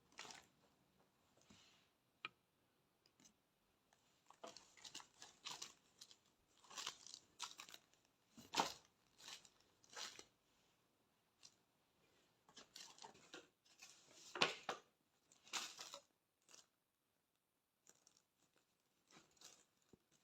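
Packaging being handled and opened by hand: short, irregular bursts of rustling, crinkling and tearing, the loudest about a third and about three quarters of the way through.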